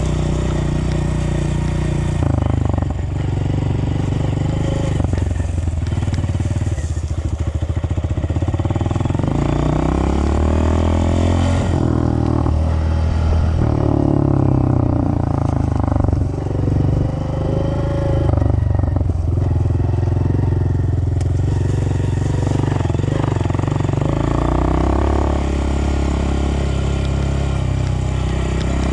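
Dirt bike engine running while being ridden, its pitch rising and falling several times as the throttle is opened and closed, steadier near the start and end.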